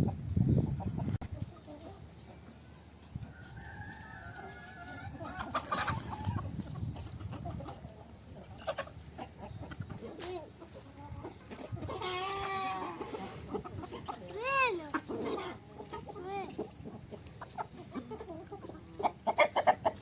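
Baladi (local) chickens clucking, with a few louder, drawn-out calls a little past the middle.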